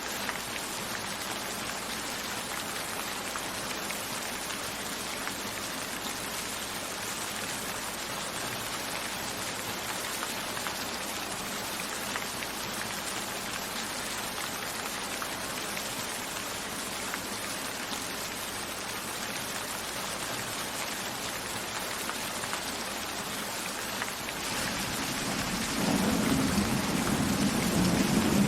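Steady rain, an even hiss of drops falling. Near the end a low rumble of thunder builds and grows louder.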